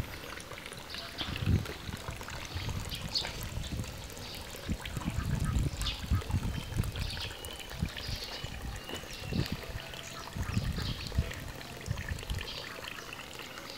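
Outdoor ambience: scattered short bird calls, with irregular low thumps and rumble from the camera being carried.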